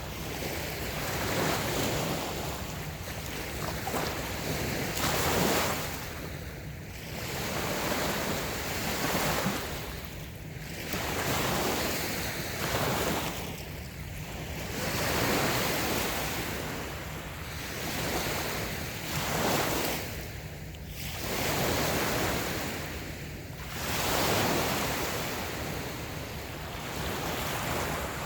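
Light waves breaking and washing up a sandy beach, the surf swelling and falling back every three to four seconds.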